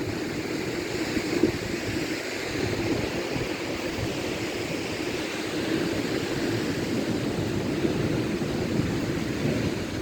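Strong gust-front outflow wind of a derecho blowing steadily, buffeting the microphone.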